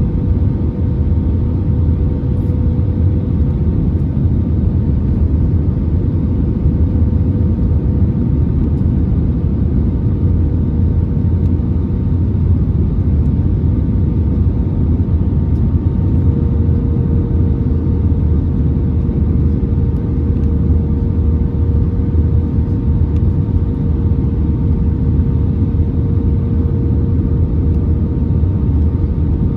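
Airbus A320neo cabin noise: a steady rumble of engines and airflow with a steady whine on top that shifts slightly in pitch about halfway through.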